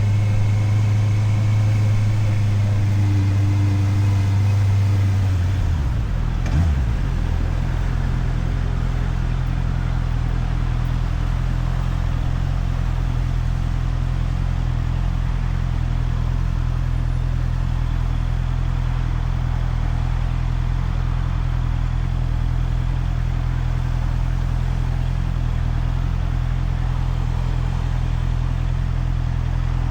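Motorcycle engine heard from the rider's helmet camera, running at a steady note, then about six seconds in it drops in pitch with a brief click and settles into a low, even idle for the rest.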